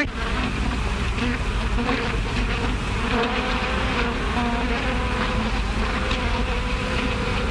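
A swarm of bees buzzing: a dense, steady drone with several humming pitches that waver up and down.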